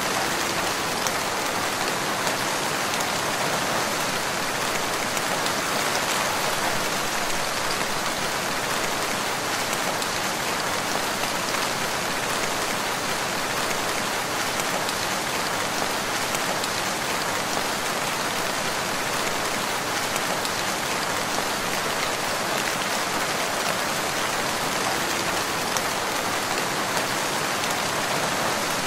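Steady rain falling in a forest, an even hiss with scattered drops.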